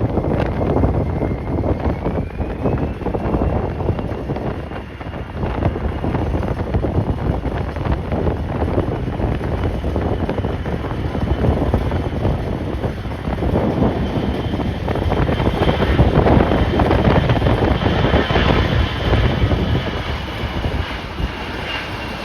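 Strong gusty wind buffeting the microphone, with a jet airliner's engines running underneath it. The engines' thin whine rises in pitch about two seconds in and then holds steady.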